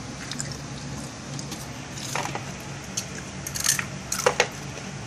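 Crunching and wet chewing of snack food close to the microphone, in scattered short crackles over a low steady hum.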